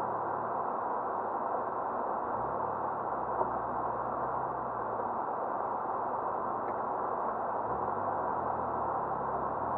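BMW E23 735i's straight-six engine heard from inside the cabin through a cheap dashcam microphone as the car pulls away and drives slowly. The engine note climbs at a few points over a steady hiss of road and cabin noise.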